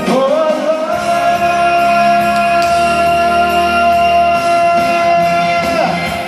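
Cantopop rock song with band backing: one long held high note, about five seconds, that scoops up at the start and falls away near the end.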